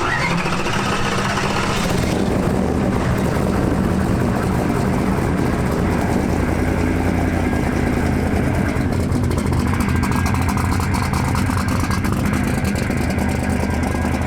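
Twin-turbo big-block V8 drag-car engine running loud and steady, with a falling whine in the first couple of seconds.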